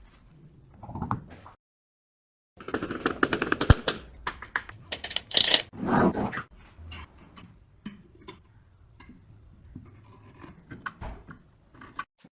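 Hand workshop sounds on metal parts: scrapes, clicks and knocks, with a louder stretch of scraping in the middle and a dull thud near the end, broken by abrupt edit cuts.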